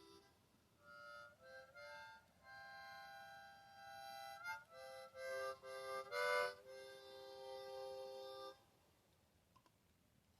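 A harmonica playing a tune of held notes and short chords, stopping about eight and a half seconds in.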